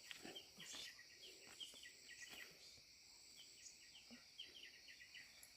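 Faint outdoor background of insects: a steady high-pitched drone with many short chirps scattered through it.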